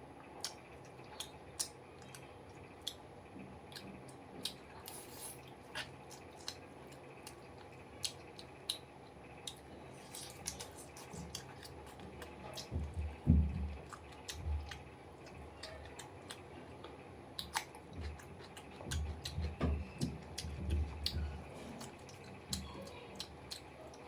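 Close-up chewing and mouth sounds of a person eating, with frequent short wet clicks and smacks. A few heavier low thuds come about thirteen seconds in and again around twenty seconds in.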